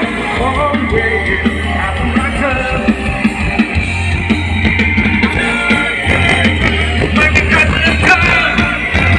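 Loud rock-style band music with drum kit, guitar and singing.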